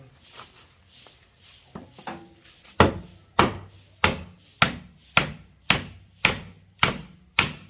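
Hammer blows on wood, knocking a nailed wooden shipping crate open: a few light taps, then a steady run of hard strikes about two a second, nine of them, each with a short ring.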